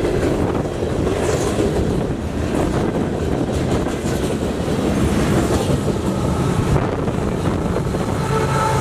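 CSX freight train rolling past: a steady, loud rumble of steel wheels on the rails as tank cars, boxcars and flatcars go by. Near the end a mid-train diesel locomotive passes, and its engine adds a steady drone.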